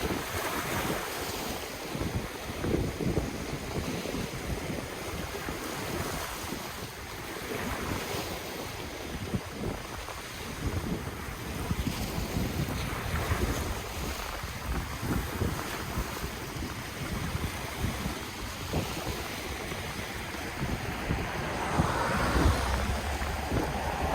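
Ocean waves washing and breaking on the shore in a steady, rolling surge, with wind rumbling on the microphone. A bigger wave swells up near the end.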